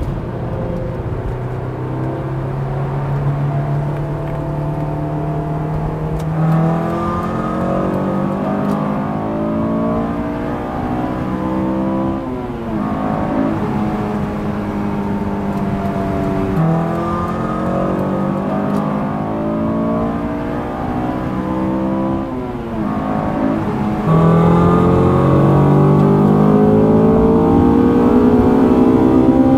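Honda S2000's four-cylinder engine heard from inside the cabin, accelerating hard through the gears: its pitch climbs steadily, then drops sharply at each of three upshifts. After the last shift the engine and road sound become noticeably louder.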